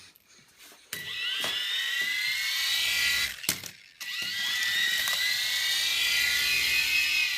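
Toy RC helicopter's small electric motors whining as its rotors spin up, rising in pitch. The whine starts about a second in, cuts out briefly just past the middle, then spins up again and keeps running steadily.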